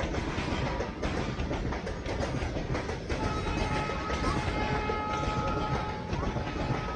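Freight train's covered goods wagons rolling past at speed: a steady rumble of wheels on rail with rapid clickety-clack over the rail joints. About three seconds in, a thin steady high whine joins the rumble and holds.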